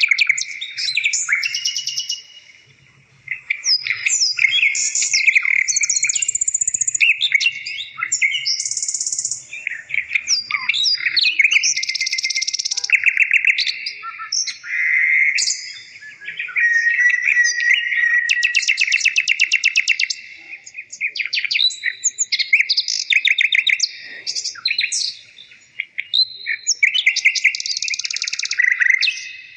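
A songbird singing on and on: a varied run of chirps, whistles and fast trills, broken by a few short pauses.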